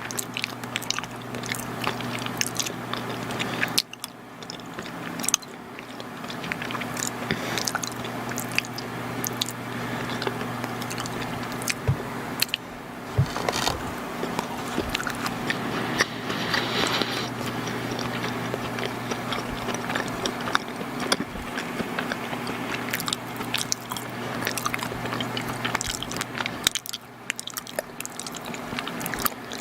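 Close-miked chewing and biting of soft, chewy chocolate baked goods: a steady stream of small wet clicks and mouth smacks, with short pauses now and then, over a steady low hum.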